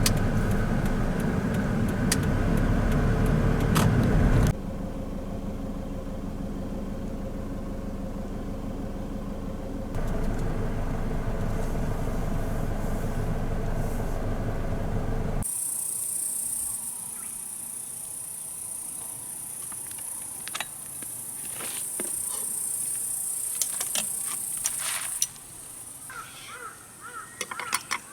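Camper van running on the road, a steady low engine and road rumble that changes level twice and cuts off about halfway through. Then a steady high-pitched insect buzz, like cicadas or crickets, with scattered clicks and knocks.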